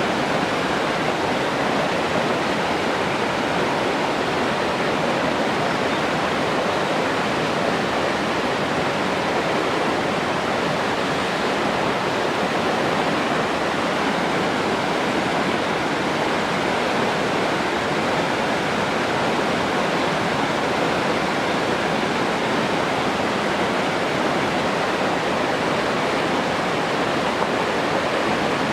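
Steady rushing water, an even unbroken rush with no splashes or changes.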